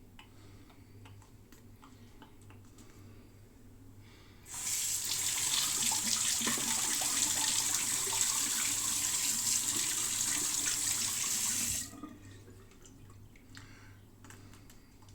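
Water tap running into a sink for about seven seconds, turned on abruptly about four and a half seconds in and shut off near twelve seconds.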